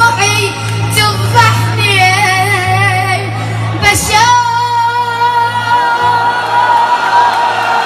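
A boy singing an Iraqi song in a strong voice, with ornamented runs, then one long held note from about four seconds in. A steady low backing drone sounds under the voice throughout.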